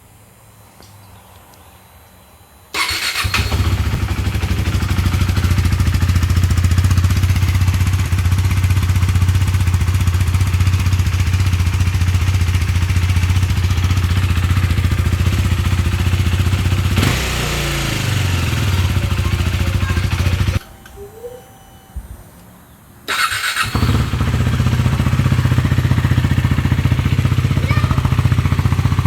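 KTM Duke 390 single-cylinder engine started about three seconds in and idling steadily. It cuts off abruptly about two-thirds of the way through, then starts again and idles.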